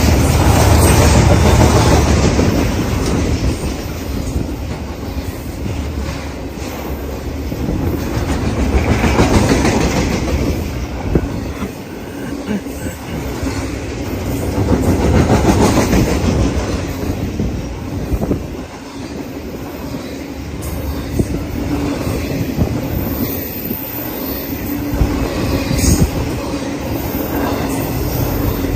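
Intermodal freight train passing on the near track: a continuous loud rumble of cars and wheels that swells and eases every few seconds, with occasional sharp clicks from the wheels.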